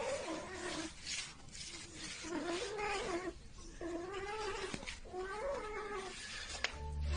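A cat yowling: a series of four or five drawn-out, wavering calls.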